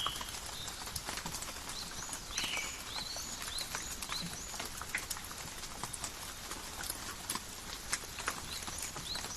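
Calm rain falling in a forest, a steady patter with many separate drops tapping and dripping close by. Short high chirps of a bird come again and again through the middle and near the end.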